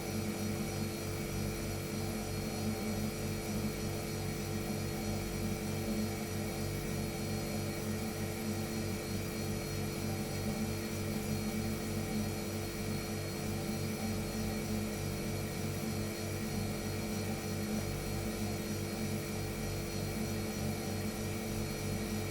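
An electric household appliance running steadily: a constant motor hum with several steady tones and a fast, even flutter at the low end.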